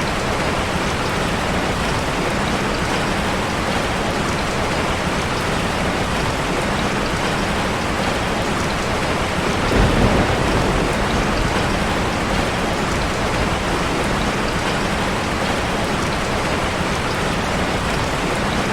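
Waterfall ambience: a steady, even rush of falling water, with a brief low rumbling swell about halfway through.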